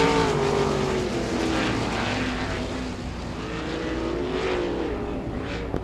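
RaceSaver sprint cars' 305 small-block V8 engines running on the dirt oval, the engine note sliding down and then rising and falling again as cars pass.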